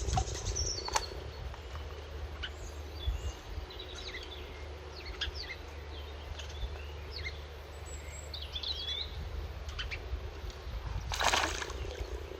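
Small birds chirping with short, quick calls over a steady low rumble. Near the end there is a brief loud rushing noise.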